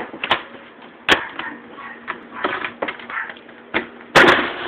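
Irregular sharp taps and knocks, the loudest about four seconds in.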